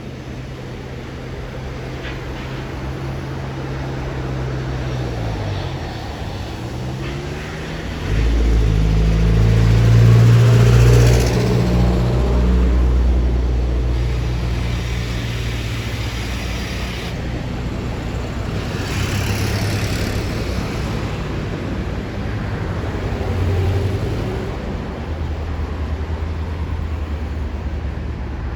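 Jet airliner's engines rumbling as it passes. The low drone grows over the first eight seconds with shifting pitch, jumps to its loudest for a few seconds, then slowly fades.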